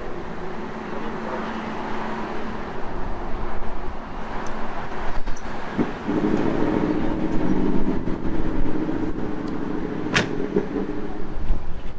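Shelby Cobra 427's V8 engine running; about six seconds in its sound comes up strong and steady. There is a sharp click about ten seconds in.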